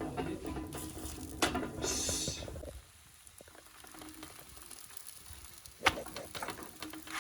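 Mhajeb cooking on a hot griddle: a light sizzle and crackle with scattered clicks and knocks of handling. A low rumble stops a little under three seconds in, and there is one sharp click about six seconds in.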